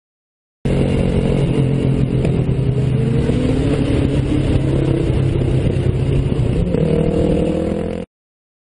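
Car engine and road noise from a moving car, steady, with the engine note rising near the end as it speeds up. The sound starts and stops abruptly.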